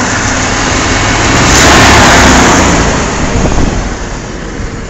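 1992 Ford F-150's 300 cubic inch inline-six engine running. It swells to a loud peak about two seconds in, as with a blip of the throttle, then drops back to an uneven idle, which the owner says misfires at idle for want of new spark plugs.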